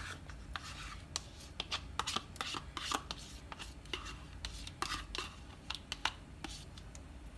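Light, irregular clicks and scrapes of a spoon working against a pan, about a dozen over several seconds, over a faint steady low hum.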